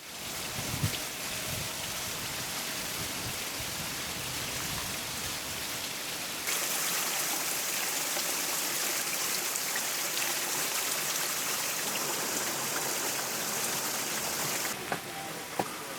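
Rushing water from a mountain stream and waterfall: a steady splashing hiss. It gets abruptly louder and brighter about six seconds in, then drops back just before the end.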